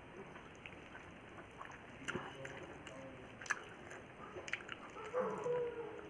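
Close eating sounds of a rice, dal and vegetable meal: wet squishes and mouth clicks of chewing, with a few short sharper clicks scattered through.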